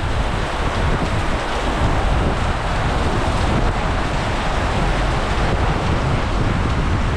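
Heavy rain falling hard in a steady hiss, with wind rumbling on the microphone.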